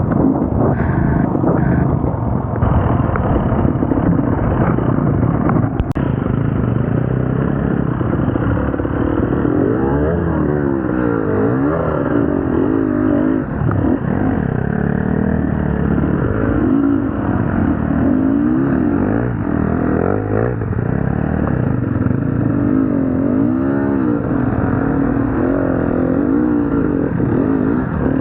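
Enduro dirt bike engine revving up and down as it is ridden, its pitch rising and falling again and again with the throttle.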